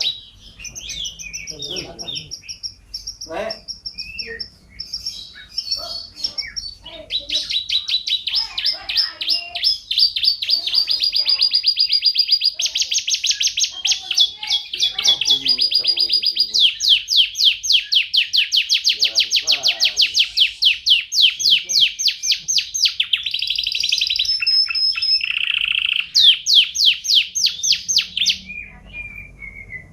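Domestic canary singing a long song of fast rolling trills and chirps, with several rolls held for a few seconds at a time and short pauses between phrases.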